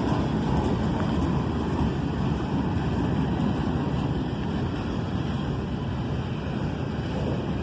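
Freight train cars rolling past: a steady rumble of wheels on rail.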